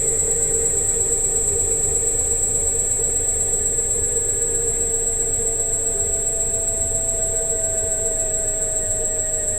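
Electric scooter running: a steady high-pitched electric whine and a lower hum whose pitch slowly rises, over a low rumble.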